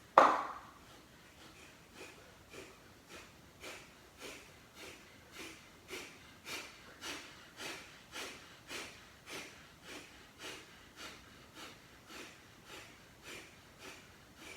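Kapalbhati pranayama breathing: short, forceful exhalations through the nose, each a sharp puff, in an even rhythm a little under two a second. A single loud, sudden sound comes right at the start.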